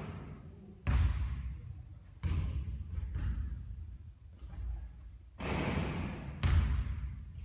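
Basketball thudding on a hard court or striking the hoop several times, each hit sharp and dying away over about a second.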